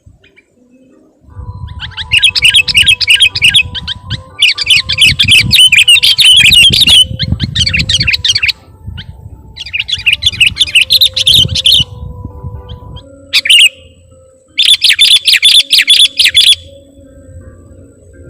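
Sooty-headed bulbul (kutilang) singing in five bursts of fast, bubbly chattering notes, one of them very short, played as a trapping lure call, over a low rumble and a faint steady hum.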